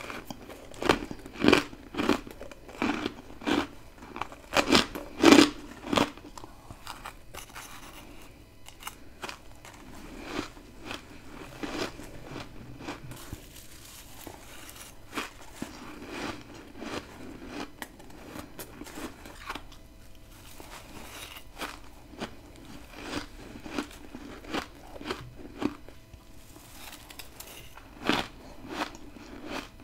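Bites into freezer frost, crunching crisply and close to the microphone: a run of loud crunches in the first six seconds, then softer, scattered crunching and chewing, with a couple of louder bites near the end.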